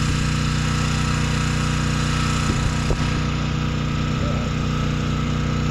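An engine idling steadily with an even low hum, with a couple of faint knocks about halfway through.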